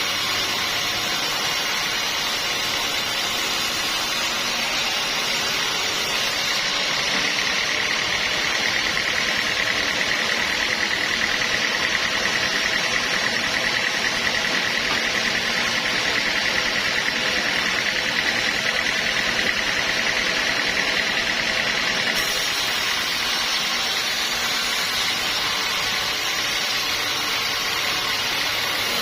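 Sawmill machinery running steadily. A steady high whine joins the machine noise about seven seconds in and cuts off about fifteen seconds later.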